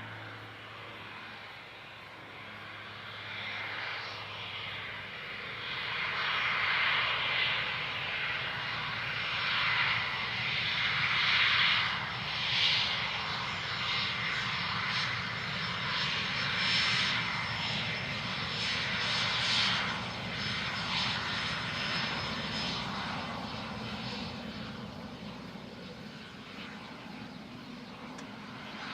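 Cessna Citation CJ1 business jet's twin turbofan engines passing on landing. The rushing noise, with a thin high whine over it, swells to a peak about halfway through and then fades away.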